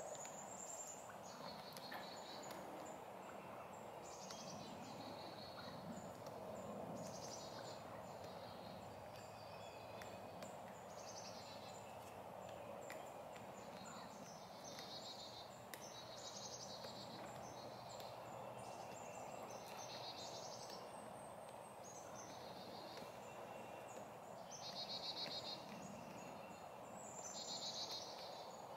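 Wild turkey gobbling faintly amid songbirds singing short, high phrases every few seconds, over a steady background hiss of the woods.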